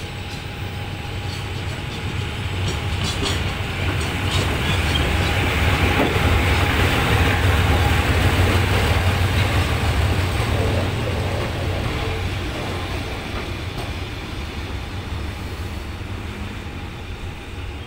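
A train passing by: its running noise with a low hum grows louder to a peak in the middle, then fades.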